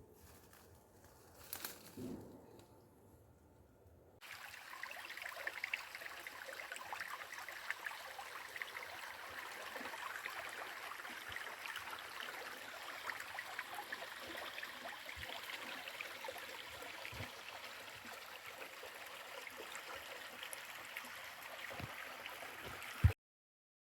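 Water of a small stream trickling and running over rocks, starting suddenly about four seconds in, then steady until it cuts off with a click near the end.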